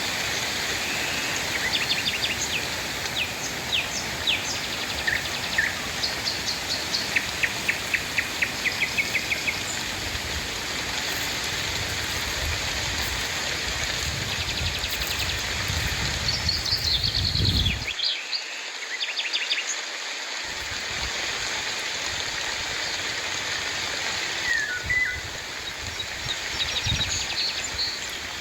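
Steady rain falling, with birds calling over it. Quick series of repeated chirping notes come through the first third, with more calls about two-thirds through and again near the end.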